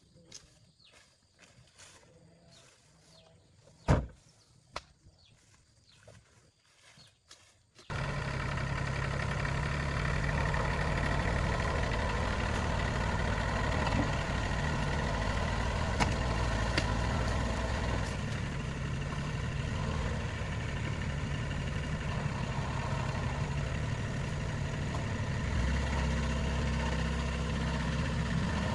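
A few faint clicks and one sharp knock, then a motor vehicle's engine comes in abruptly about eight seconds in and runs steadily at idle with a low hum.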